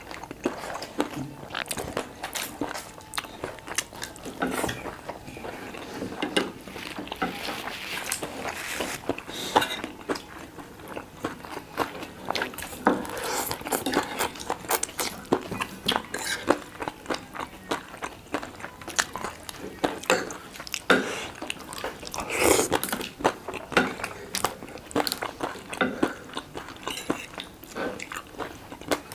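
A person chewing and biting food close to the microphone: a run of irregular small crunches and wet mouth clicks.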